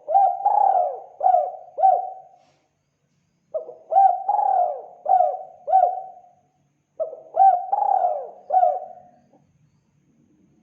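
Spotted dove (tekukur) cooing: three phrases about three and a half seconds apart, each a short note, a longer drawn-out coo and two short clipped notes.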